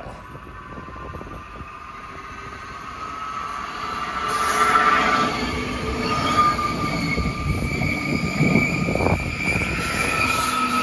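Uetliberg Railway electric commuter train approaching and passing close by, growing louder over the first few seconds, with wheels rumbling on the rails and a steady high whine.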